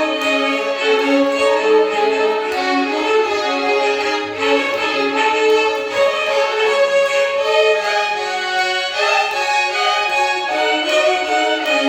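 Violins of a Carnatic violin orchestra playing a melody, the notes changing one after another with a few sliding notes near the end.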